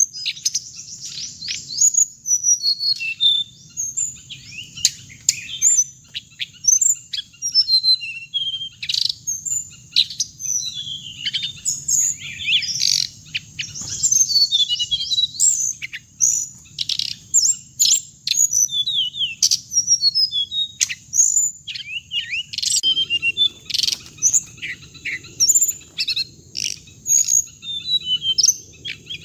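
Hồng hạnh bird singing: a dense, continuous run of rapid high chirps, twitters and short gliding notes, the call used to lure the species to a loudspeaker trap.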